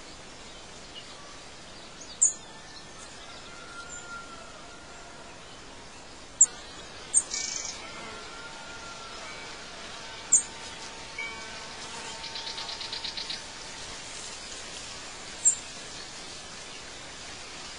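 Birds chirping over a steady background hiss: short, sharp high chirps every few seconds, a few brief whistled notes, and a quick trill of repeated notes about twelve seconds in.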